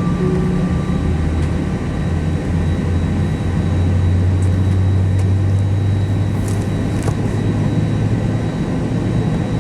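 Steady cabin noise inside an Airbus A319 airliner: a low drone that shifts up a little in pitch about four seconds in, with a faint high whine above it.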